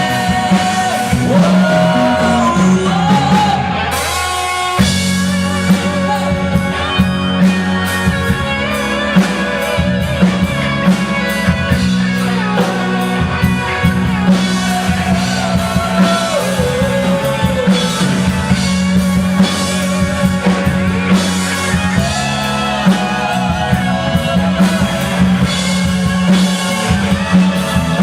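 Live rock band playing: electric guitar, bass guitar and drum kit under a melodic lead line. The bass and drums drop out for a moment about four seconds in, then the full band comes back in.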